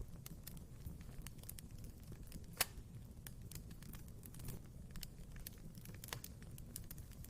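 Fire crackling in a fireplace: irregular small snaps over a low, steady rumble, with one louder pop about two and a half seconds in.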